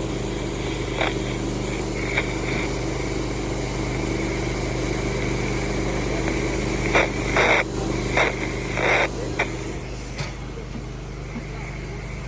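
Engines running steadily with a low, even hum, with several short hissing bursts about seven to nine and a half seconds in.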